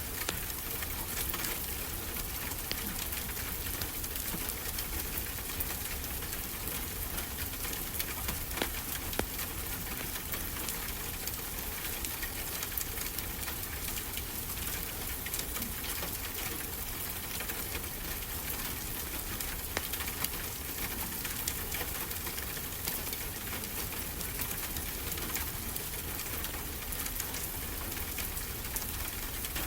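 Fireplace fire crackling with frequent small sharp pops, over a steady wash of ocean surf.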